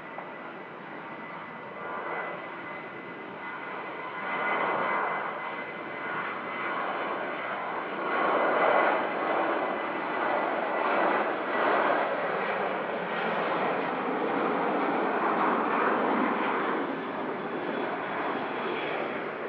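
Airliner's engines passing close by, a rushing roar that builds over the first half and then holds loud, easing slightly near the end. A thin steady whine sounds faintly in the first few seconds.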